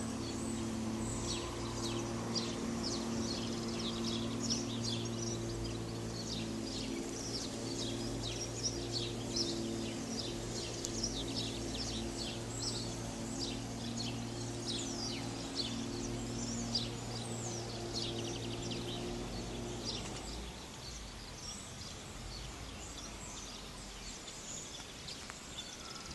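Birds chirping, a dense run of quick high notes. Under them runs a steady low hum that stops about three quarters of the way through.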